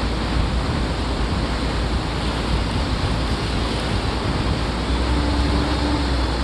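Water taxi underway: a steady rush of water and wind over a low engine rumble.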